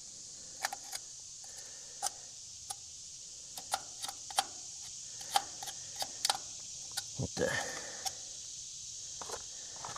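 Irregular light clicks, taps and scrapes of hand-cleaning caked grease off a tractor's oil drain plug, with a longer scrape about seven seconds in.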